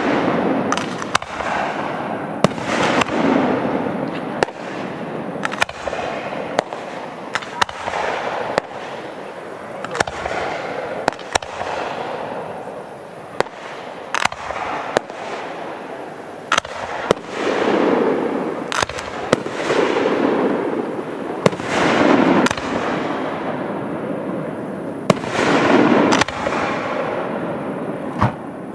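Aerial fireworks bursting overhead: a long run of sharp bangs, several close together at times, with longer rushing swells of noise between them.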